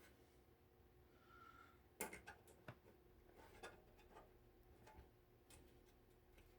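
Near silence broken by faint, scattered clicks and light knocks of small plastic parts and wire connectors being handled as the LED light is unplugged and pulled out of the heater. The sharpest click comes about two seconds in.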